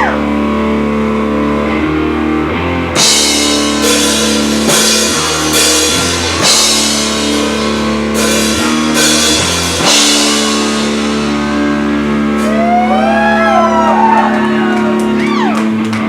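Live rock band playing: electric guitar and bass holding chords under a drum kit, with cymbal crashes about once a second through the middle. Near the end, guitar notes bend up and down over a held chord.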